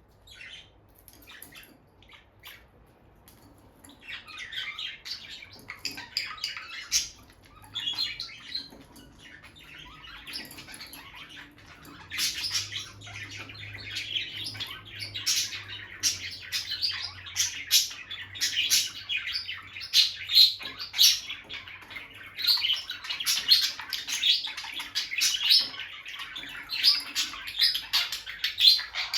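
Pair of peach-faced lovebirds chirping and squawking. A few faint clicks and short chirps at first, then from about four seconds in a near-continuous run of rapid high chirps that grows busier and louder about halfway through.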